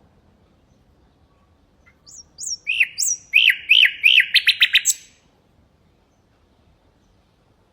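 Nightingale singing one phrase of about three seconds, starting about two seconds in. A few high slurred notes lead into a run of repeated down-slurred whistles and end in a fast rattle of sharp notes.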